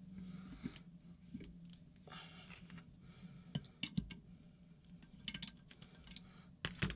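Faint, scattered clicks and taps of metal tools and small paintball-marker parts being handled on a workbench, over a low steady hum.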